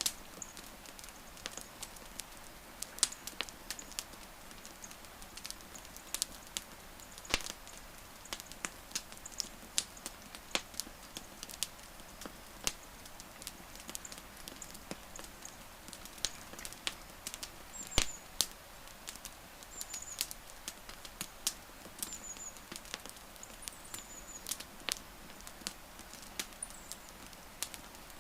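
Wood fire crackling: irregular sharp snaps and pops over a steady hiss, with a few louder pops. Faint short high chirps sound now and then in the background.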